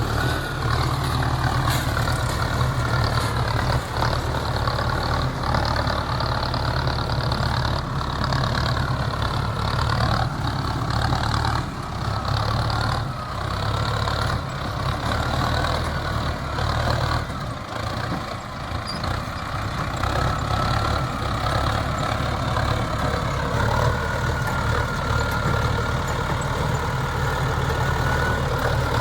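Mahindra Arjun Novo 605 tractor's diesel engine running steadily under load. Its pitch wavers, and it eases off briefly about two-thirds of the way through before picking up again.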